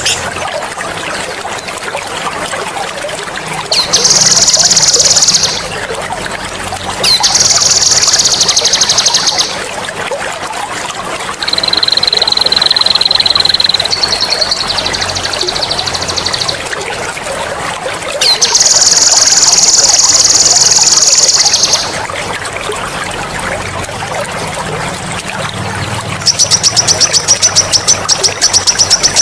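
Songbird mastering song: loud, high-pitched rolling trills in about six bursts of two to three seconds each, one of them a held whistled note and the last a fast pulsed trill, over steadily trickling water.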